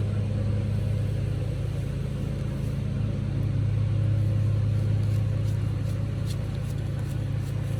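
Lawn mower engine running at a steady speed, a constant low hum.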